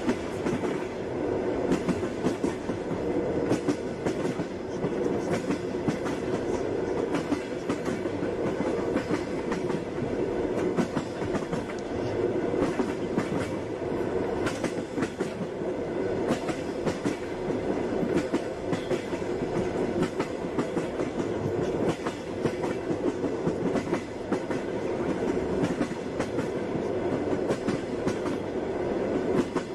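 Train wheels rolling at speed: a steady rumble with continual clickety-clack as the wheels pass over rail joints.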